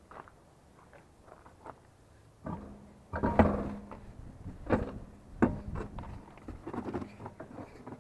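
Knocks and clatter of tools and parts being handled, loudest a few seconds in, with a steady low hum under the middle of it.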